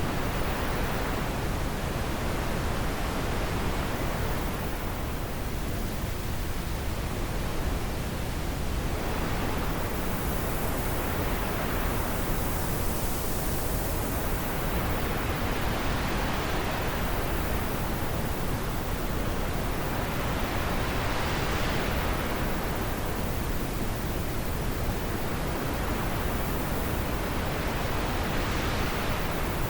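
Wind blowing steadily, an even rushing hiss with a constant low rumble, swelling and easing slowly every several seconds as gusts come and go.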